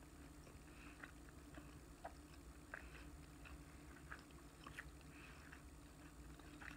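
Faint chewing: soft, irregular mouth clicks and smacks of a person eating with the mouth closed.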